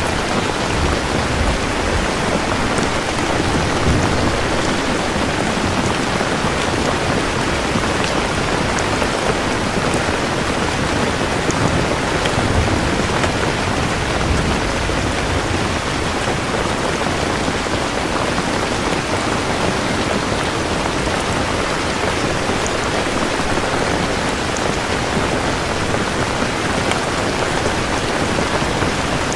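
Steady, heavy rain falling in a dense, even hiss, with low rumbles of thunder in the first few seconds and again about twelve seconds in.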